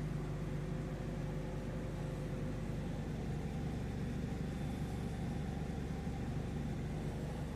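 1991 Mitsubishi 3000GT VR4's twin-turbo V6 idling steadily while warming up after a cold start.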